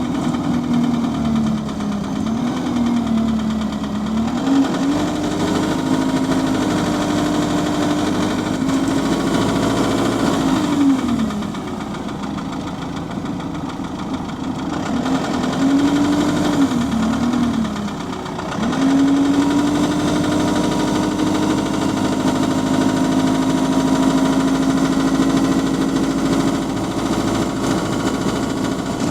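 Bus engine and driveline heard on board while driving, with a whine that rises and falls with road speed and drops away twice, about a third of the way through and again briefly past the middle. Under it is a knock that the uploader puts down to engine rod knock.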